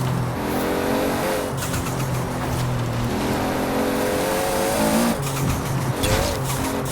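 Toyota Supra RZ's 2JZ-GTE straight-six with a large single turbo accelerating, its pitch rising. It breaks off twice near the end as the throttle lifts, each time with a short rushing burst of turbo flutter or blow-off.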